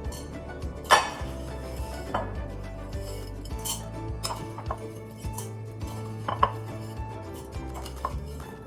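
Utensil and bowl clinks and knocks as crunchy noodles are put into a big mixing bowl: one loud knock about a second in, then several lighter clinks at uneven intervals.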